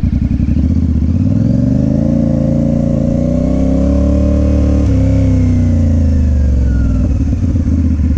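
Motorcycle engine going from a lumpy, pulsing low rumble to a rising pitch as it accelerates, with a brief break near five seconds like a gear change. The pitch then falls as the bike slows, and the engine settles back into the pulsing rumble near the end.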